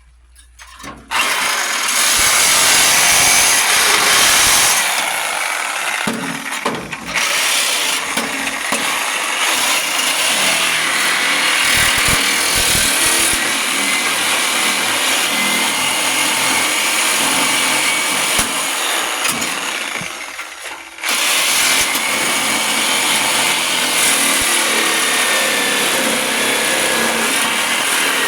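Handheld power tool running under load in two long runs. It starts about a second in, cuts out briefly about twenty seconds in, and starts again.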